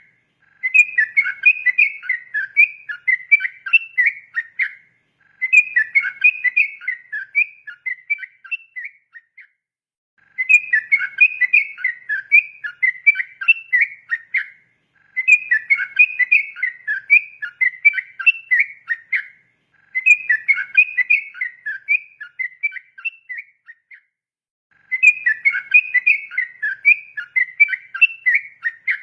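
Yellow-vented bulbul (trucukan) singing its rapid, rolling 'ropel' song: six long phrases of quick, bubbly notes, each about four seconds, with short pauses between.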